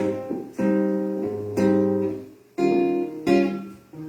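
Guitar strumming chords, about one strum a second, in an instrumental passage of a song.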